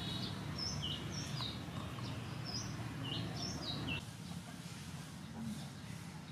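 Birds chirping in short, repeated whistled notes over a steady low background noise; the chirping stops about four seconds in, leaving only the low noise.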